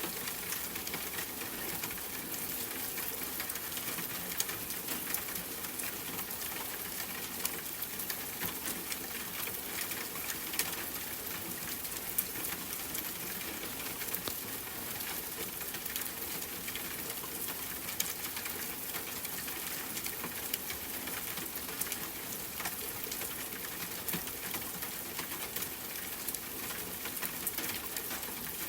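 Steady rain falling, with scattered individual drops ticking and pattering throughout.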